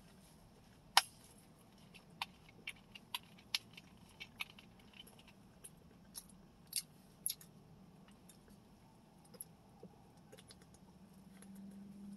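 Close-up eating sounds: chewing with scattered sharp clicks and crunches, the loudest about a second in, thinning out after the first seven or eight seconds.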